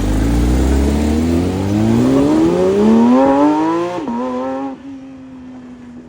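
A car engine revving up under acceleration, its pitch climbing steadily for about four seconds. The revs then drop suddenly, and a lower steady engine note fades away.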